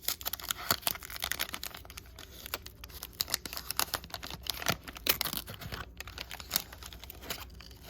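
Trading card pack wrapper being torn open and crinkled by hand, a dense run of irregular paper crackles and rustles.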